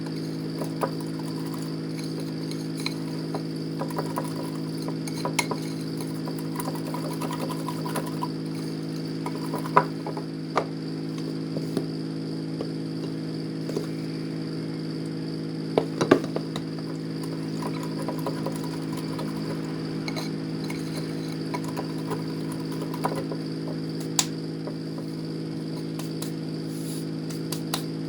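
Dishes, glass and cutlery clinking now and then over a steady mechanical hum, with a few sharper knocks about 10 and 16 seconds in.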